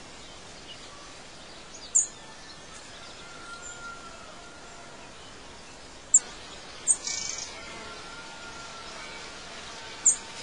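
Birds chirping over a steady background hiss, with four short, sharp, high chirps standing out above the rest.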